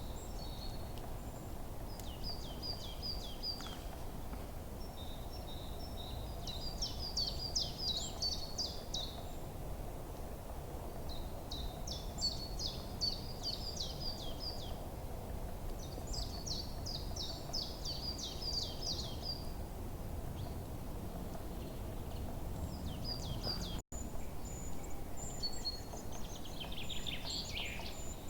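Forest songbirds singing: one bird repeats a short, fast, high-pitched trilled phrase every few seconds, and another lower, sweeping call comes in near the end, over a steady low rushing background. The sound cuts out for a split second about three-quarters of the way through.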